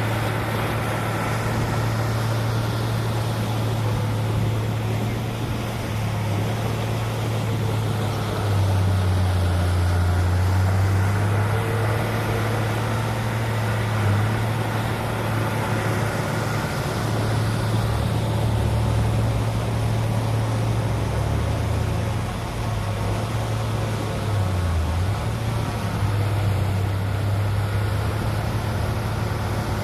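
Diesel engine of heavy earthmoving machinery running steadily throughout, its low hum shifting in pitch a few times as the throttle or load changes.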